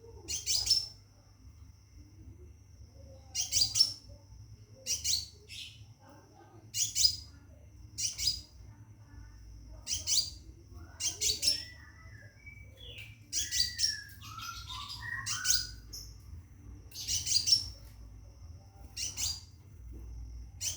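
Caged scarlet minivet (sepah raja) calling, which the uploader takes as calling for a mate. It gives short, sharp, high chirps repeated every one to two seconds, with some softer, lower twittering in the middle.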